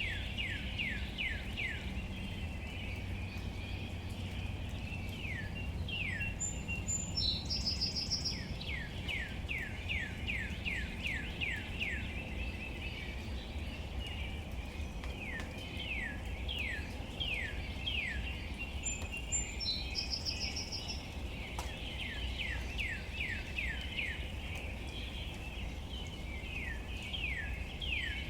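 Birds calling in outdoor ambience: bouts of quick downward-sweeping notes, several a second, come again and again, and twice a short, higher chattering call cuts in. Under them runs a steady low outdoor noise.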